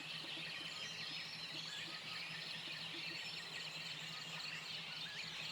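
Many small birds chirping and twittering together in a dense, continuous chorus, over a faint steady low hum.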